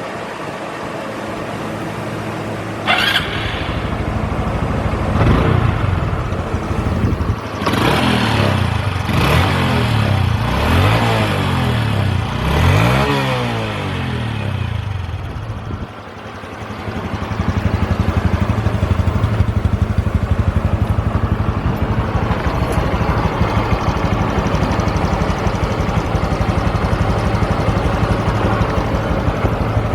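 Honda CT125 Hunter Cub's 125 cc air-cooled single-cylinder engine. A sharp burst comes about three seconds in. The engine is then revved up and down several times. From about halfway on it settles into a steady idle.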